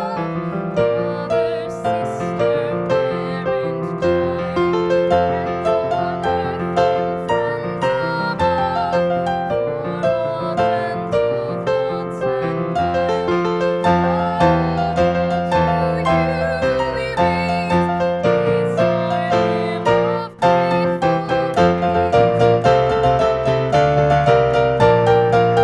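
Solo piano playing a slow instrumental piece, with sustained bass notes under the melody; the sound drops out for an instant about twenty seconds in.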